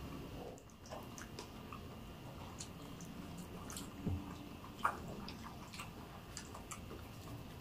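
Faint chewing of fresh pineapple chunks dipped in chili sauce, with scattered small wet mouth clicks and two slightly louder ones about four and five seconds in.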